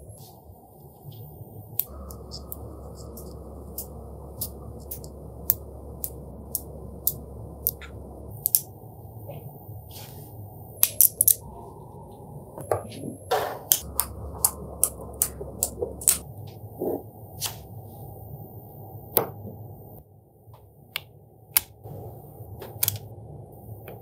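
Small magnetic balls clicking as they snap onto one another, sharp irregular clicks about once a second over a faint steady hum.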